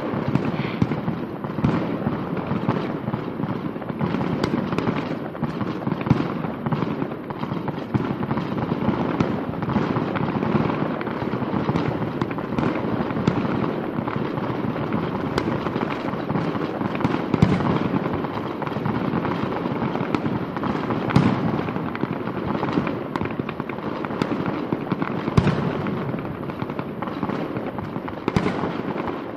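Fireworks finale: a dense, continuous barrage of shells bursting and crackling, with occasional louder bangs standing out.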